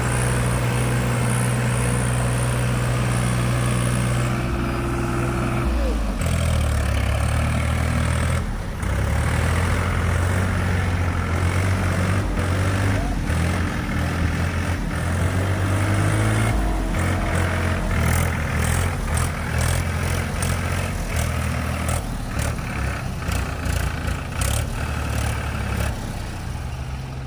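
Tractor diesel engine running steadily. Its note drops about six seconds in and then rises and falls, with a run of short knocks and clatters in the second half.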